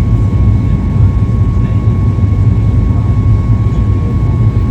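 Cabin noise of a Boeing 737 MAX 8 airliner: a steady, loud low rumble of its CFM LEAP-1B engines and airflow, with a constant high whine over it.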